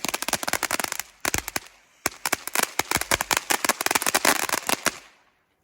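A string of firecrackers going off in rapid, dense cracks, with a brief lull a little after one second, stopping abruptly about five seconds in.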